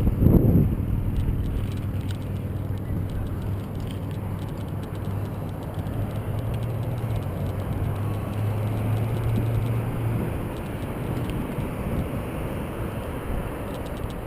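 Wind rushing over a GoPro microphone with bicycle tyre noise during a ride, a steady low rumble throughout. A louder burst comes right at the start.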